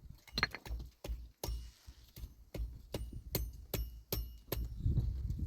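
A run of irregular sharp clicks and light clinks, about two or three a second, some ringing briefly, with a low rumble building near the end.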